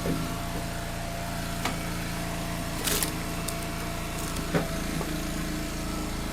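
Log splitter's engine running steadily, with a few sharp wooden knocks and a brief crack as rounds of firewood are split and handled. The loudest knock comes about two-thirds of the way through.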